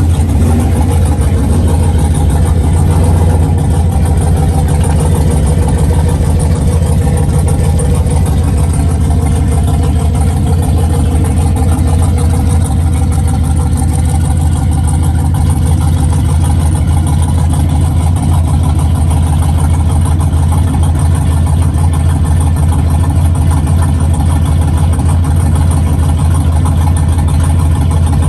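Large truck engine running at a steady speed: a loud, even low drone that holds without revving up or down.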